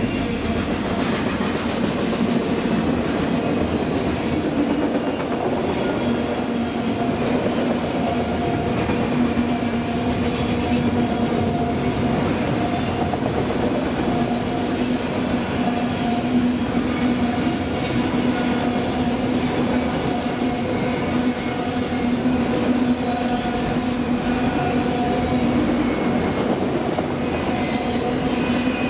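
Loaded autorack freight cars rolling past: a steady rumble of steel wheels on rail with a continuous hum and thin high-pitched wheel squeals that come and go.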